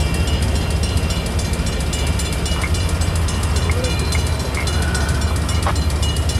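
Double-stack intermodal container cars rolling past a grade crossing: a steady low rumble and clatter of wheels on the rails. The crossing's Safetran mechanical bell rings over it in quick, even strokes while the signals are active.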